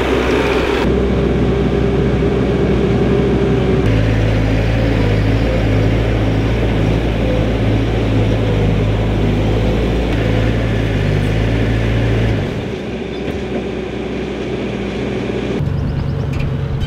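A vehicle engine running steadily. Its tone shifts about four seconds in, and it gets quieter at around twelve seconds.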